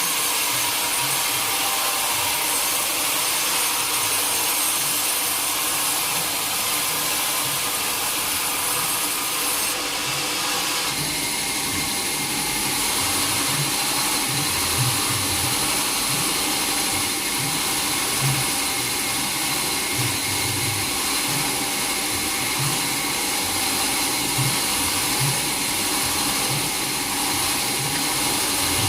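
Sawmill saw running steadily through wood with a continuous whining hiss. About eleven seconds in the sound changes and an uneven low rumble joins it.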